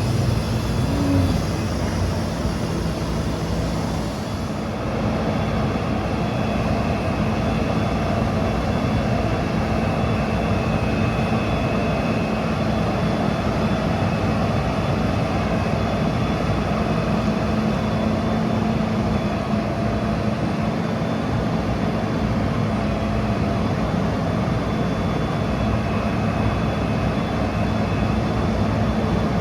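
Cummins B6.7 turbo diesel engine of a Mack MD truck running steadily, with a steady whine; a higher hiss over it stops about four seconds in.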